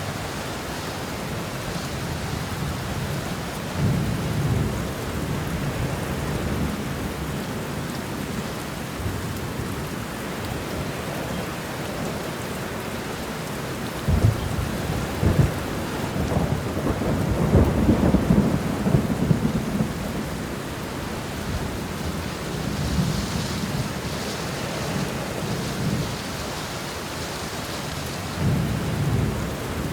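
Steady rain with thunder rumbling several times. About halfway through comes a sharp thunderclap followed by a long rolling rumble; lighter rumbles come before and near the end.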